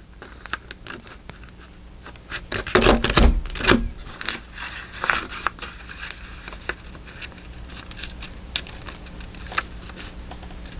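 Paper being handled and cut: rustling and crinkling with many sharp clicks, busiest and loudest for about a second around three seconds in.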